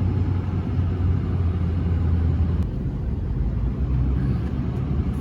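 Pickup truck carrying a truck camper driving slowly, a steady low engine and road rumble.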